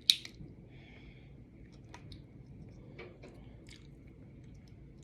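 A person chewing crab with small mouth clicks, starting with one sharp click or smack, followed by a few faint clicks.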